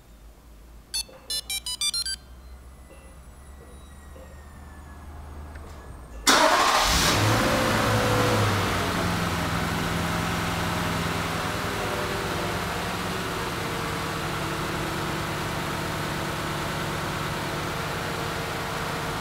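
A quick run of short electronic beeps from the remote-start security system. About four seconds later the Toyota Land Cruiser 200's V8 engine is cranked and catches. It flares in revs as it fires, then drops back to a steady idle.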